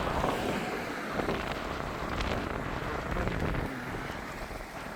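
Sea waves washing in, with wind buffeting the microphone; the rushing noise swells and eases, a little quieter near the end.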